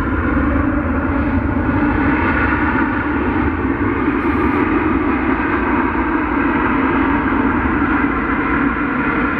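Jet engines of a Boeing 737-800 (CFM56-7B turbofans) running loudly and steadily as the airliner lands, a rumble with a steady humming tone through it.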